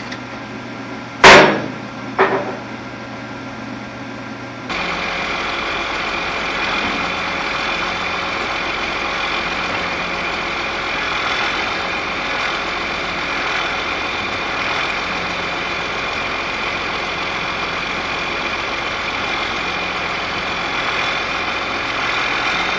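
Two sharp bangs, the first the loudest, a second or so apart; then, about five seconds in, a steady engine running at idle sets in.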